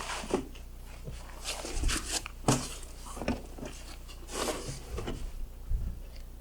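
Scattered crunches, knocks and rustles of a person climbing aboard a snow-covered tractor, over a faint steady low hum.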